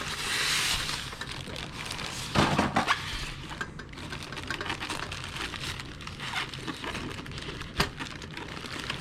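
Packaging rustling and crinkling as a boxed model locomotive is handled and unwrapped, with a louder scrape a couple of seconds in and a sharp knock near the end.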